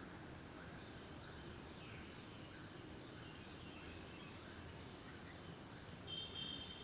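Small birds chirping, many short falling chirps over a low background hiss, with one louder, ringing call near the end.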